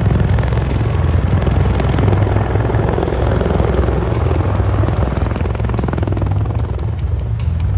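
MV-22 Osprey tiltrotor aircraft overhead: the steady, loud thrum of its big proprotors and turboshaft engines, with a fast pulsing rumble.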